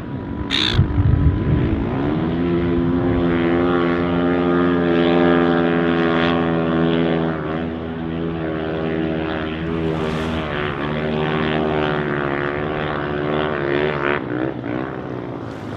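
An engine running with a steady, droning pitch for about thirteen seconds, after a short knock about a second in.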